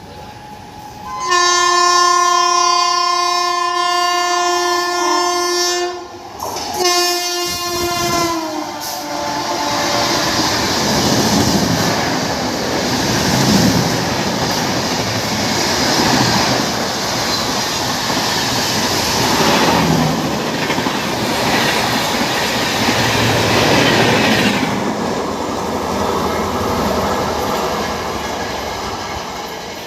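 Indian Railways express train's electric locomotive sounding a long horn blast, then a second shorter blast whose pitch drops as it passes. The train then rushes by with loud wheel clatter and rumble that fades near the end.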